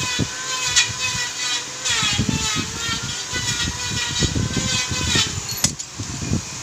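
Short knocks and handling sounds of hand tools working on a motorcycle engine's crankcase bolts, under a steady machine hum whose pitch dips twice. The hum stops with a click about five and a half seconds in.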